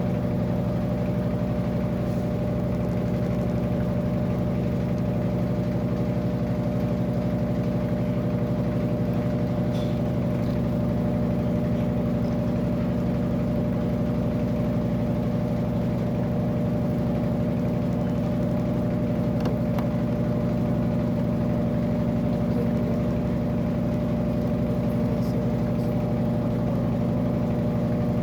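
Electrolux LAC13 13 kg top-loading washing machine running, its motor giving a steady, unchanging hum.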